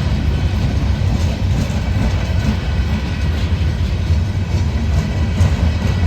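A train rolling past, a loud steady rumble of wheels on the rails.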